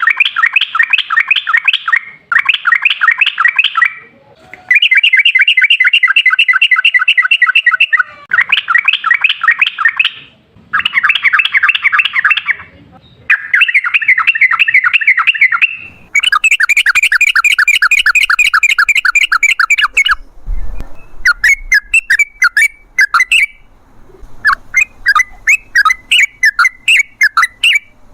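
Yellow-vented bulbul (trucukan) singing long rolls of fast-repeated chattering notes, phrase after phrase with short pauses. Near the end the rolls give way to separate quick notes.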